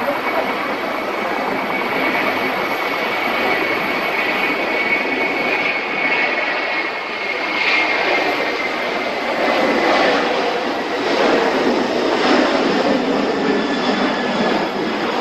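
Jet engines of a China Airlines Airbus A330-300 airliner running: a steady rush of engine noise with a high whine that sinks slightly in pitch over the first half, growing louder in swells in the second half.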